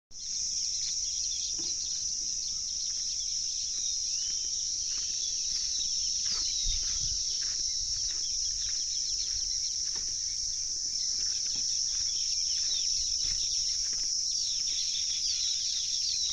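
Small birds chirping repeatedly in short, quick calls over a continuous high-pitched insect drone.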